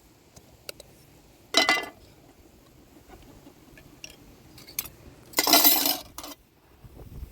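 Dishes or cooking utensils clattering, with two louder clatters about a second and a half in and near the middle, and small clinks between them.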